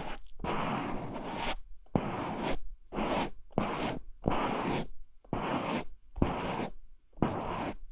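Rhythmic scratchy rubbing strokes of an ASMR trigger object against a binaural microphone, each short and starting sharply, repeating a little faster than once a second.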